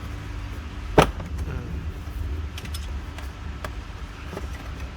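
Plastic dashboard trim panel being pushed off its clips, with one sharp click about a second in and a few fainter clicks later, over a steady low hum.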